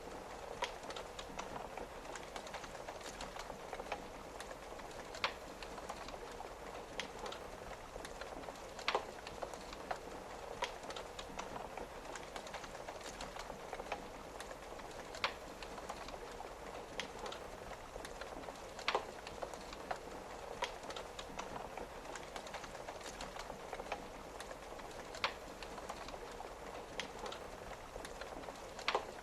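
Wood fire crackling, with sharp single pops every second or two, a few louder than the rest, over the steady hiss of rain on a window.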